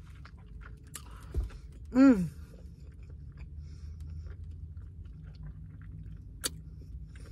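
A person chewing a mouthful of sushi with the mouth closed, with small wet mouth clicks. About two seconds in there is a short hummed voice sound that falls in pitch, and a sharp click comes near the end.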